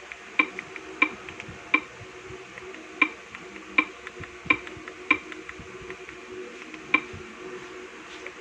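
About ten sharp, irregularly spaced clicks as a Wi-Fi password is entered one character at a time with a mouse on the TV box's on-screen keyboard.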